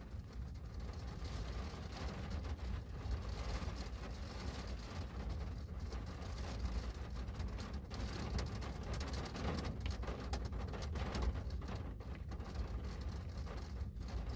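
Steady rain on a window pane, many small drop ticks over a continuous hiss, with a strong low rumble underneath.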